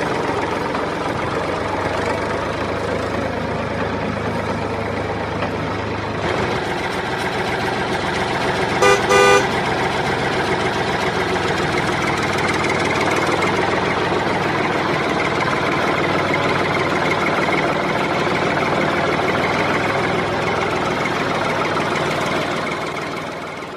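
Mini tractor engine running steadily, with a horn tooting twice in quick succession about nine seconds in. The engine sound fades out at the end.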